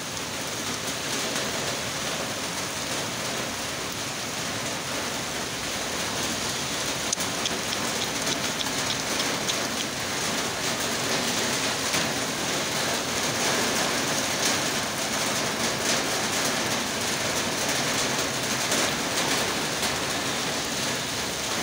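Torrential rain pouring steadily onto brick paving and parked vehicles, a dense, even hiss of rain that does not let up.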